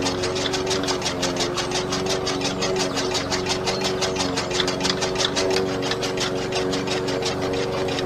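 Small motor of a homemade model tractor running steadily, with a fast, even clicking of about five or six clicks a second.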